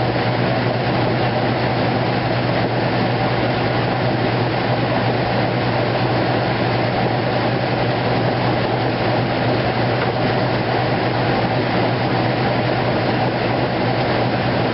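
2008 Kenmore washing machine running its heavy duty cycle: a loud, steady mechanical hum.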